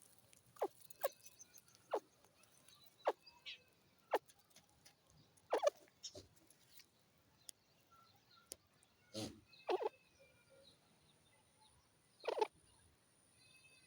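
Grey francolins (teetar) giving short, sharp clucks and calls, about ten spread unevenly through the stretch, with the loudest a little past halfway and near the end. Faint thin bird chirps sound in between.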